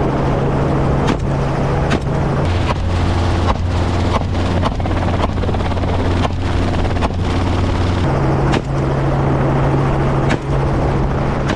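Helicopter running: a steady, loud rotor and engine hum with a noisy wash over it. The hum drops in pitch about two and a half seconds in and comes back up near eight seconds, and short sharp clicks break through it here and there.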